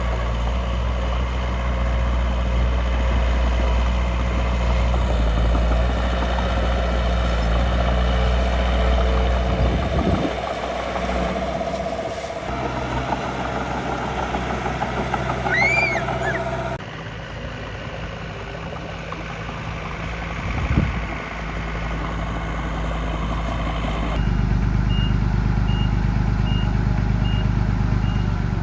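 Truck-like engine running steadily, changing abruptly a few times, with regular reversing beeps starting about four-fifths of the way through.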